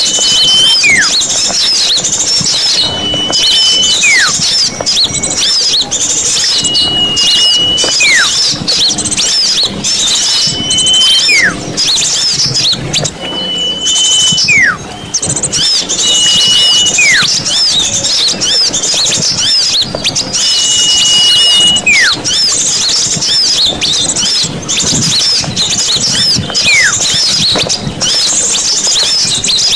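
Bird-lure recording of a dense, busy chatter of many small birds chirping high and nonstop. Over it, a whistled call repeats about every four seconds: a flat held note followed by a falling whistle.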